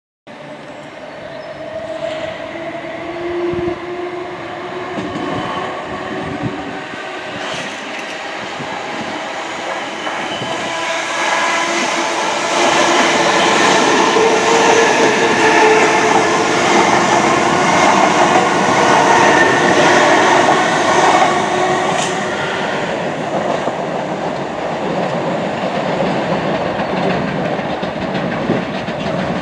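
A train running past on the rails, its wheel noise carrying several steady tones. It grows louder to a peak in the middle and eases off a little near the end.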